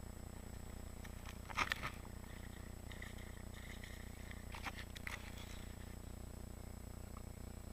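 Steady low rumble with a few brief scraping sounds, about one and a half seconds in and twice near the middle.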